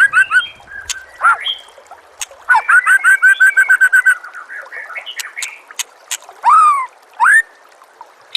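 White-rumped shama (murai batu) singing a varied song: quick chirps and sharp clicks, a rapid run of repeated notes about two and a half seconds in, and two down-slurred whistles near the end.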